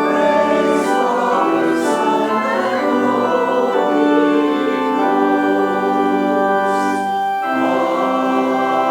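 Church organ playing slow, sustained chords that change every second or so, with a brief break in the sound about three-quarters of the way through before the next chord.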